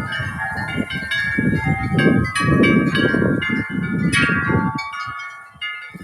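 Several tuned metal wind chimes ringing hard in gusty wind, many overlapping tones struck over and over. A gust buffeting the microphone adds a low rumble through the middle of it, fading off near the end.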